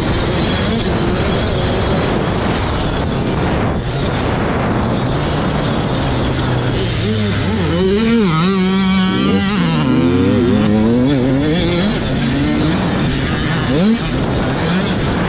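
Motocross dirt bike engines running on the track, revving up and down as the bikes race past.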